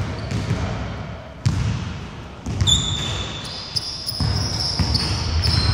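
A basketball bouncing on a wooden court during play, with thuds and footfalls. From about halfway in, sneakers squeak repeatedly on the floor.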